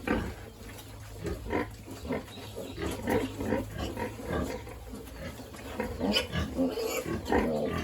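Pigs grunting in short, irregular bursts, with a few shriller squeals around two-thirds of the way through.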